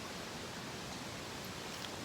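Steady, even hiss of water outdoors, with one faint small tick near the end.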